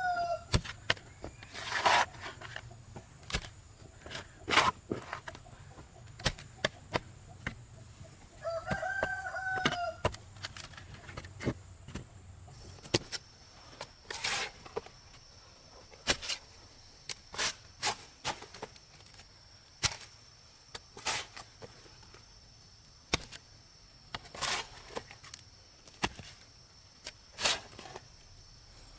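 A rooster crowing: the tail of one crow at the very start and a full crow about nine seconds in. Frequent sharp knocks sound throughout, over a steady high-pitched whine.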